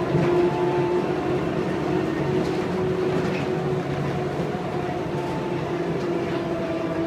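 Las Vegas Monorail train running between stations, heard from inside the car: a steady electric drive hum made of several held tones over a constant rumbling noise.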